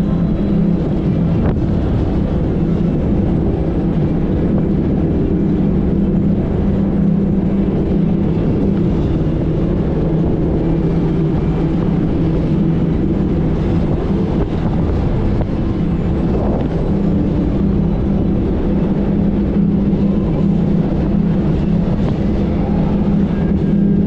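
90 hp Evinrude outboard motor on an inflatable Thundercat boat running steadily at speed, with wind rushing over the microphone.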